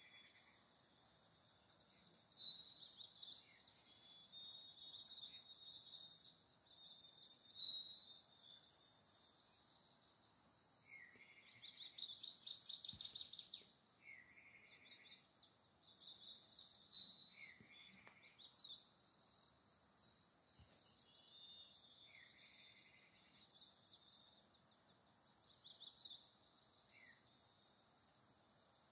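Faint birdsong: small birds chirping and twittering in short phrases repeated every few seconds, over low background noise.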